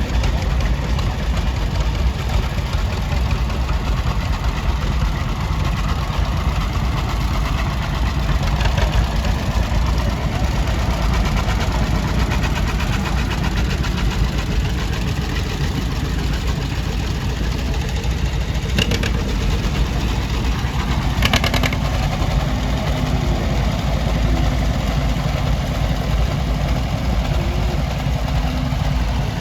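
Tractor engines running steadily, a continuous low rumble. Two short sharp clicks come about two-thirds of the way through.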